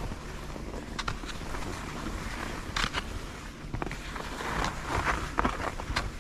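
Skis sliding and scraping over snow, a hissing that swells near the end, with a few sharp clicks scattered through.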